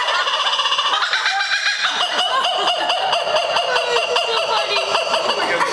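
A bird calling loudly in one long unbroken string of harsh, rapidly pulsing notes.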